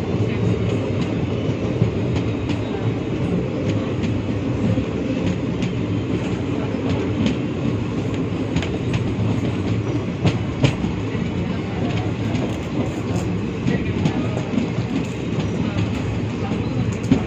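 Moving passenger train heard from beside the coach: a steady rumble of the wheels on the track, with a few sharp clacks, the loudest about ten seconds in and again near the end.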